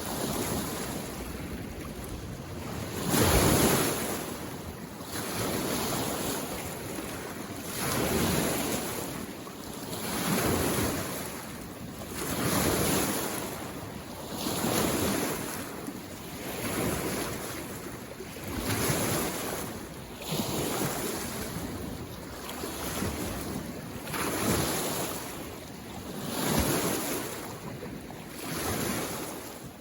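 Small mountain-lake waves washing in on the shore, one swell about every two seconds, over a steady hiss.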